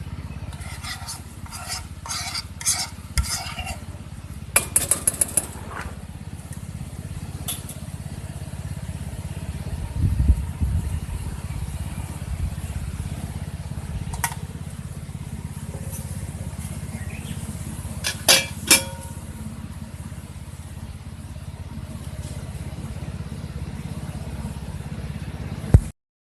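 Cookware being handled while pancakes are made: metal utensils clink and scrape against a pan and dishes in a few short clusters over a steady low rumble. There is a run of clinks at the start, a single click midway and two sharp clinks later.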